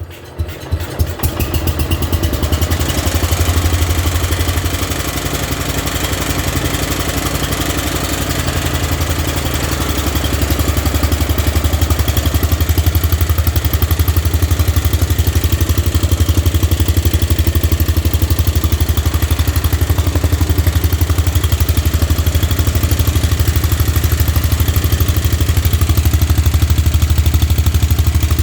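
John Deere 112's Kohler K241 single-cylinder engine firing unevenly as it starts in the first couple of seconds, then running steadily with an even beat. It gets a little louder about ten seconds in.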